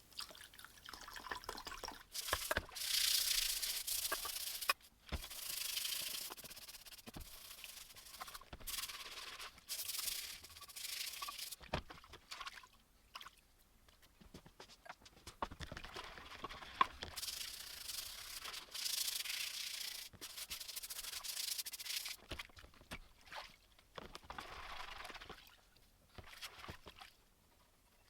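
Hand abrasive rubbing on rusty metal, in irregular strokes of a second or two with short pauses and an occasional click.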